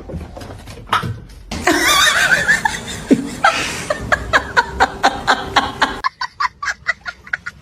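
Laughter in quick, repeated bursts, with a cut to another clip about six seconds in.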